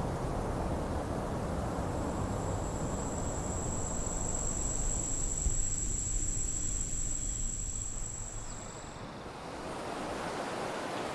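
Outdoor ambience: a steady rushing noise, with a thin, steady high-pitched whine that comes in about two seconds in and stops about nine seconds in.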